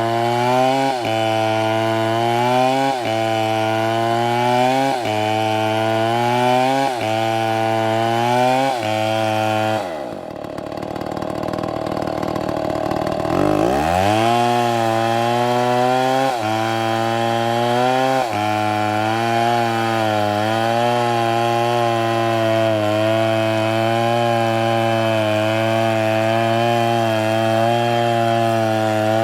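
Two-stroke chainsaw cutting oak at high revs, its pitch dipping briefly about every two seconds. About ten seconds in, the engine falls right off, then revs back up within a few seconds and runs steadily in the cut.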